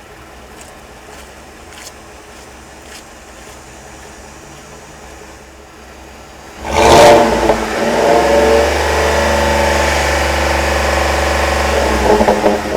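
2010 Ford F-150's 4.6-litre 16-valve SOHC V8 exhaust, idling quietly, then revved sharply about two-thirds of the way in and held at raised revs for several seconds before dropping back near the end.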